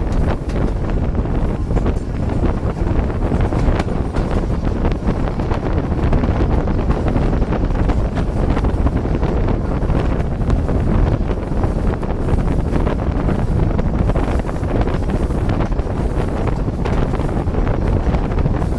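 Passenger train passing on a curve: a loud, steady low rumble with scattered sharp clicks from the wheels on the track, with heavy wind buffeting the microphone.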